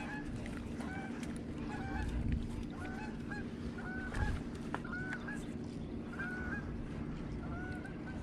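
A flock of birds calling, short pitched calls coming several times a second, over a steady low hum.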